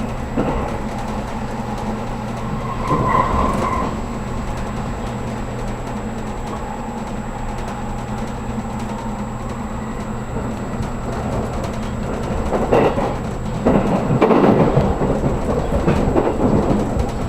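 Inside a JR Kyushu 783 series electric express train car while running: a steady low hum of the train in motion, with louder rough rumbling and clattering about three seconds in and again through the last few seconds.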